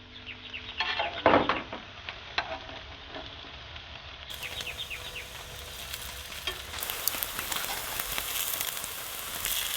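Vegan bacon sizzling as it fries in a pan, a steady hiss with small crackles. A few sharp knocks sound about a second in.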